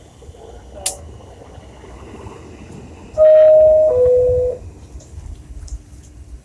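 New York City subway car's door chime, two loud tones stepping from higher to lower about three seconds in, the signal that the doors are closing. A low train rumble lies beneath, with a sharp click about a second in.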